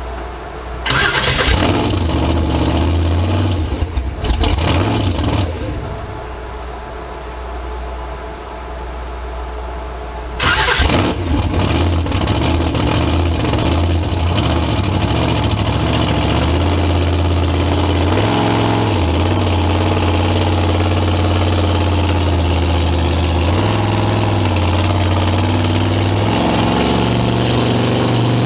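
Vehicle engine starting up with a loud burst about a second in, another loud burst around ten seconds, then running steadily with small rises and falls in pitch.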